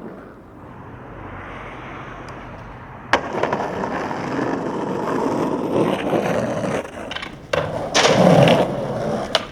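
Skateboard wheels rolling on concrete, growing louder after a sharp pop about three seconds in. Further sharp knocks and a loud scraping burst follow near the end, typical of a trick landed or a board hitting the ground.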